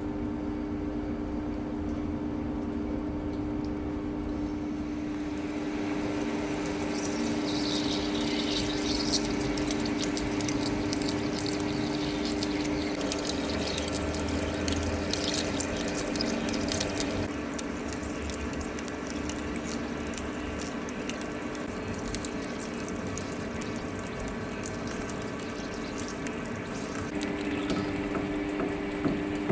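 Large lathe running steadily while parting off excess material from a hydraulic cylinder rod. The spindle's steady hum is joined about six seconds in by the hiss and crackle of the cut, which eases off after about seventeen seconds.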